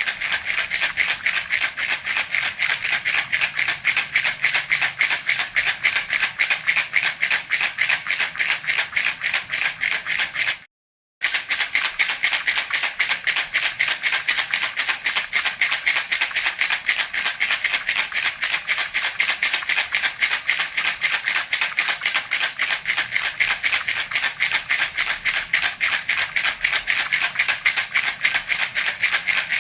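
Baby rattle (jhunjhuna) shaken rapidly and continuously, a dense, even rattle of small beads, breaking off for about half a second near the eleven-second mark.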